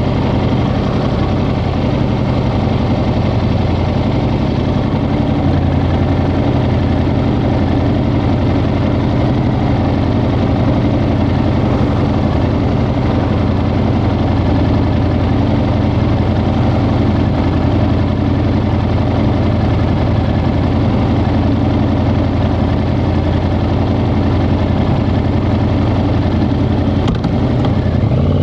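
Yamaha XSR700's 689 cc parallel-twin engine idling steadily, its revs starting to rise right at the end.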